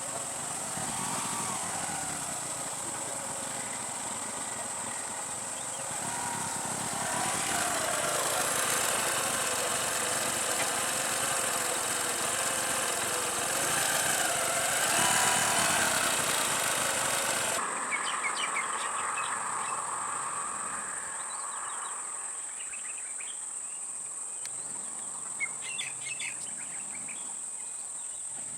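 A steady, high-pitched drone of forest insects runs throughout. A vehicle engine runs loudly over it through the middle, its pitch wavering, and cuts off suddenly. Short bird chirps follow near the end.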